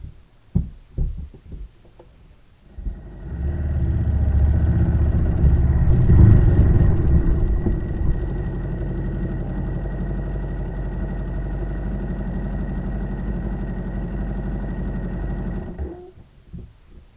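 An engine running steadily. It builds up over the first few seconds, peaks briefly, holds an even note, and cuts off abruptly near the end.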